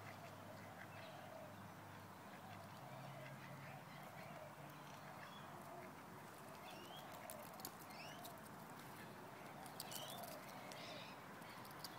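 Faint, soft bird calls, a low wavering chatter with a few short high chirps in the second half.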